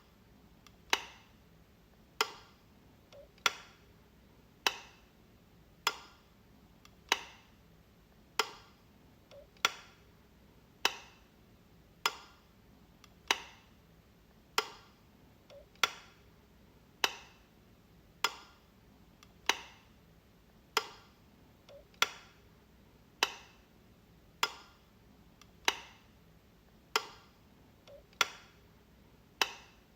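Light switch being flicked, one sharp click a little under once a second in an even rhythm, each with a short fading tail. Every fifth click or so a fainter click comes just before it.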